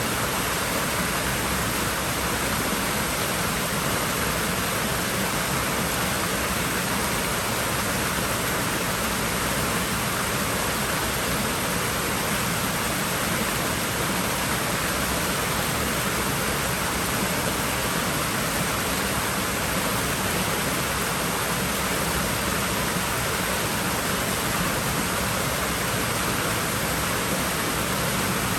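Steady, unchanging rush of moving water in a swimming pool, an even hiss with no separate splashes.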